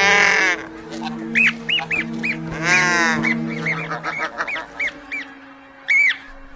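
A bird calling: a run of short rising-and-falling chirps, about three a second, broken by two loud, harsh honking squawks, one at the start and one about three seconds in.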